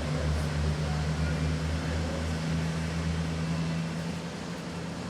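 Diesel train engine running with a steady low drone and a slight pulsing beat, easing off a little near the end.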